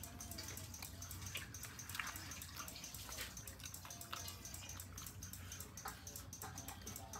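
Chewing and crunching of crispy fried carrot fritters, a run of irregular small crackles.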